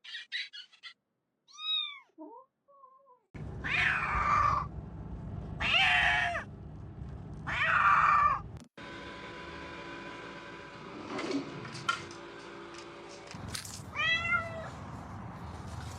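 A pet's repeated cries, each a short call that rises and falls in pitch. There is a faint one about a second and a half in, then three loud ones about two seconds apart, then a steady background hum, and another cry near the end.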